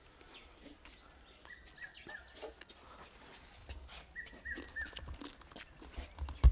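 A bird calling a quick phrase of three short hooked notes, twice, the same phrase every two to three seconds. A low thump comes near the end.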